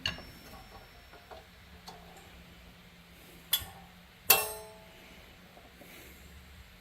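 A faint click, then a light tap, then a sharper metallic clink that rings briefly: small metal parts or a tool knocking against metal.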